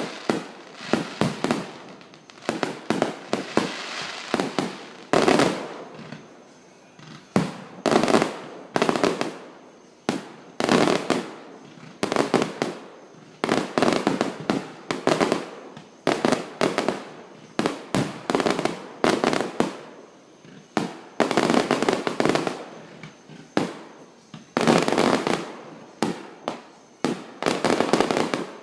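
Aerial fireworks going off: a dense run of sharp bangs and crackling volleys, coming in clusters every second or two, each with a short echo.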